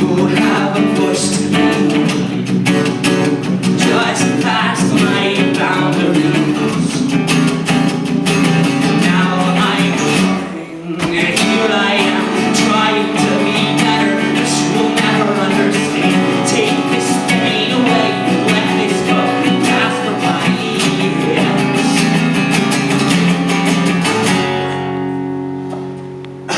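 Live band music led by strummed guitar, with no clear vocal line. The playing breaks off for a moment about ten seconds in, then carries on until a final chord rings out and fades near the end.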